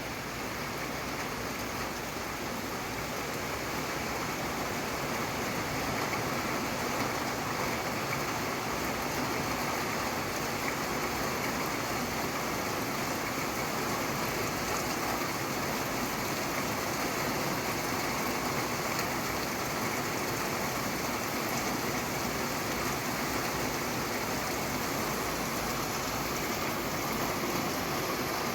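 Steady rain, an even dense hiss of falling drops that grows slightly louder a few seconds in.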